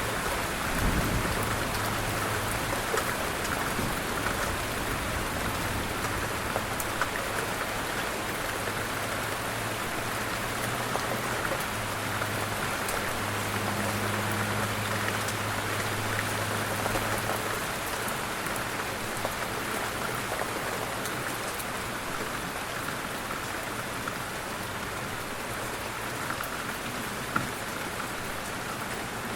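Light rain falling steadily, with scattered ticks of individual drops. A low hum comes and goes through the first half, and there is a low thump about a second in.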